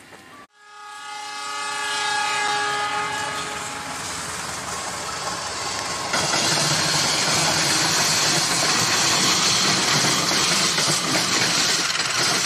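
Diesel locomotive's multi-tone air horn sounding for about three seconds, then the train's loud, steady running noise as it approaches, which jumps up about six seconds in.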